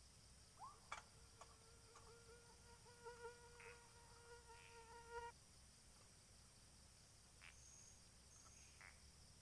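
A flying insect buzzing close by with a steady, thin hum that lasts about five seconds and then stops, with a few faint clicks around it.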